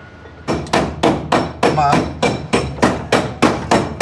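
A hammer striking metal again and again in a steady rhythm of about three blows a second, starting about half a second in, with a faint metallic ring under the blows.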